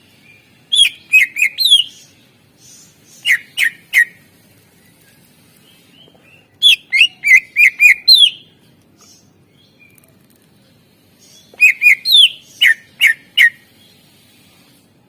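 Cucak ijo (green leafbird) singing: four quick bursts of loud, sharply downslurred whistled notes, three to six notes each, spaced a few seconds apart.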